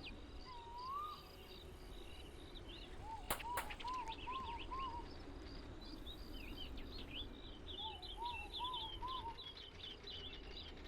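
Small birds singing: runs of short arched whistled notes repeated several times, with quick higher chirps mixed in, over a steady background hum.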